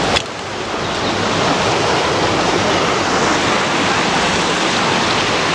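Ocean surf washing onto a beach: a steady rush of waves. There is a short click just after the start.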